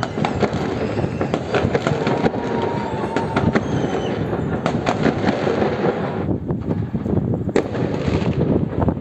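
Fireworks: a dense, continuous crackle of many bangs and pops overlapping one another, with a few faint whistling tones among them.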